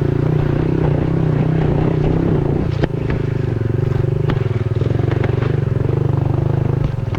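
Dirt bike engine running at a steady throttle on a rooty, rutted trail, with a few sharp knocks and some clatter as the bike hits roots.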